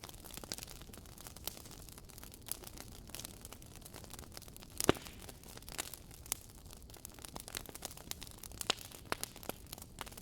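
Wood campfire crackling: irregular sharp pops and snaps over a soft hiss, with one loud pop about halfway through.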